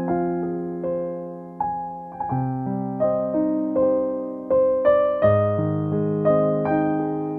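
Gentle, slow piano music: single notes and chords are struck every second or so and left to ring and fade.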